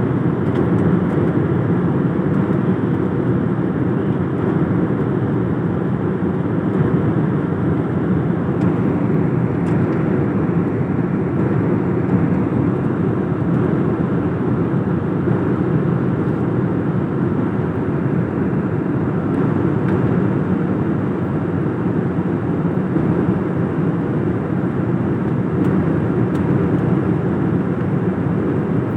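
Steady, loud rushing of a large indoor waterfall, water falling continuously: the Rain Vortex at Jewel Changi Airport, fed by collected rainwater.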